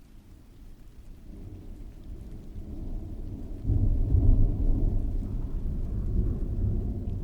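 Thunder rolling in heavy rain: a low rumble builds from about a second in, swells suddenly a little past halfway, then rolls on and slowly eases. Steady rain falls underneath.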